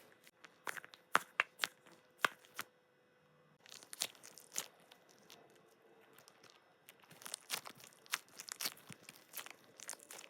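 Plastic packaging being torn and crinkled by hand, in three bursts of sharp crackles with short pauses between.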